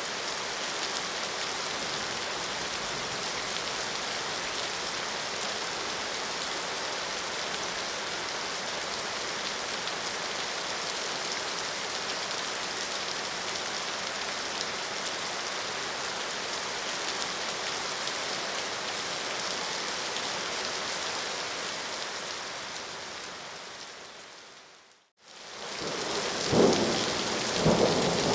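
Steady rain, fading out about 25 seconds in to a moment of silence. It then gives way to heavier rain with loud claps of thunder near the end.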